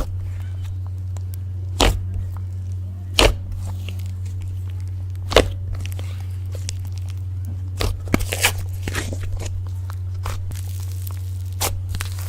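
Slime being worked by hand, giving sharp pops and crackles every second or two, with a quick cluster of crackles about eight seconds in, over a steady low hum.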